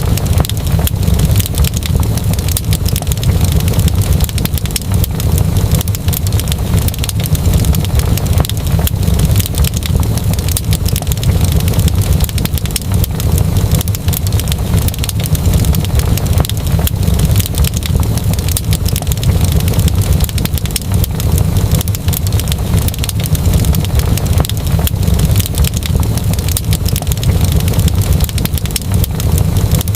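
Wood fire burning in a fireplace, with dense, continuous crackling and popping over a steady low rumble of the flames.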